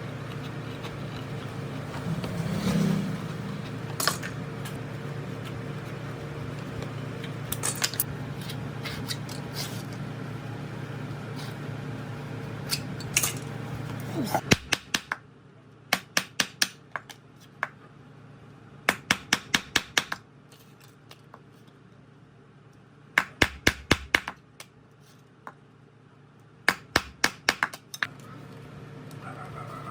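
A steady low machine hum that stops about halfway through, followed by clusters of quick, sharp metallic clicks and taps.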